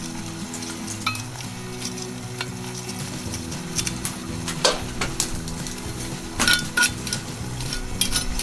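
Wood fire crackling in a small fire pit under a cast-iron Dutch oven, a constant fine crackle with a few sharper snaps about halfway through and again near the end.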